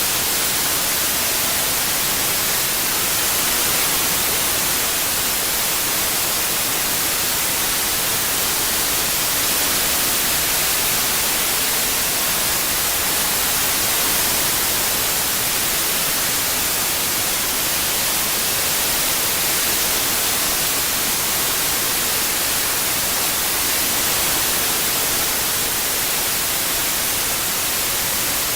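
Steady synthetic white noise, an even hiss strongest in the high frequencies, with no change throughout.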